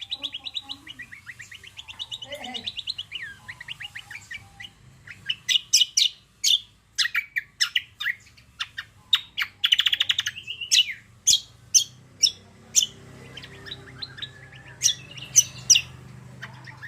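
Kecial kombo (cucak kombo) songbird singing: rapid rattling trills for the first few seconds, then a run of sharp, high chirps with a dense buzzy trill about ten seconds in. A faint steady low hum lies underneath.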